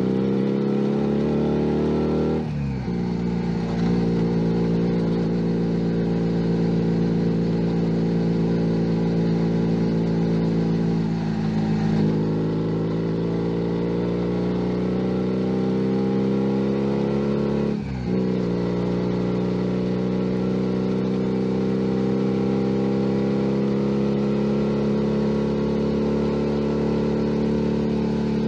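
Junak M11 Cafe's 125 cc single-cylinder engine heard from on board while riding. The revs climb, break off briefly for a gear change a couple of seconds in and again about two-thirds of the way through, and otherwise hold a steady cruising note.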